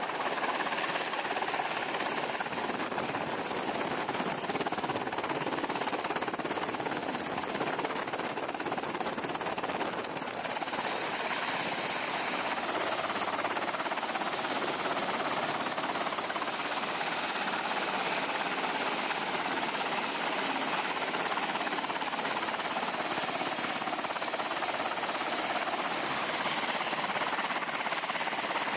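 Steady din of aircraft turbine engines running on a carrier flight deck, with a thin high whine on top; the sound brightens and the whine shifts slightly about ten seconds in.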